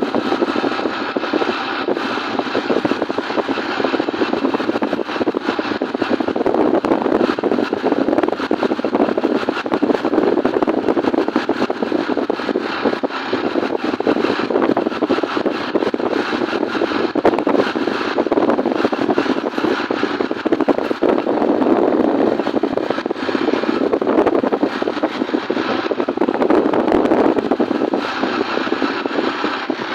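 Steady running noise of a motorcycle on the move: engine and rushing air held at a constant level, with no change in speed.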